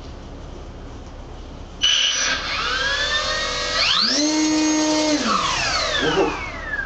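Hacker A30-16M brushless outrunner motor spinning its propeller in a first run-up test: about two seconds in it starts abruptly and whines upward, jumps to a higher steady whine at full throttle for about a second, then winds down with falling pitch as the throttle comes back.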